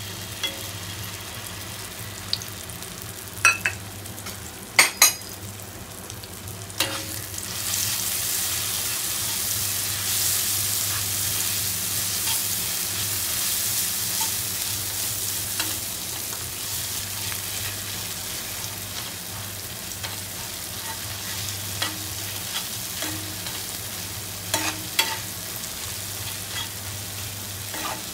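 A thick yellow paste frying in hot oil in a nonstick pan, stirred with a spatula. A steady sizzle swells about seven seconds in, and the spatula knocks and scrapes against the pan throughout.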